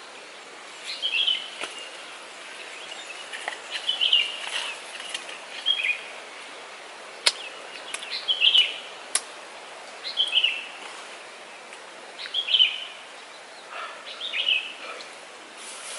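A bird calling over and over, a short falling chirp repeated roughly every two seconds, with a few sharp clicks in between.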